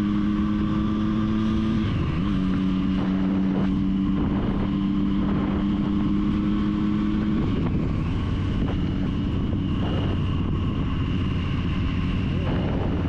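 Triumph Street Triple's three-cylinder engine running under way at steady revs, with road and wind noise. The engine note dips briefly about two seconds in and drops to a lower note about seven and a half seconds in.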